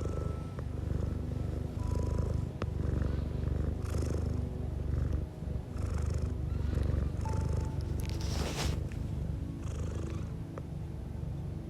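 A domestic cat purring close up: a steady low rumble that swells and eases with each breath, about once a second, with soft breathy hisses between. There is one brief louder hiss about eight seconds in.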